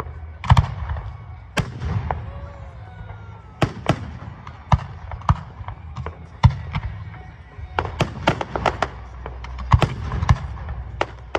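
Fireworks display: sharp bangs from bursting aerial shells at irregular intervals, with a quick run of crackling reports near the end.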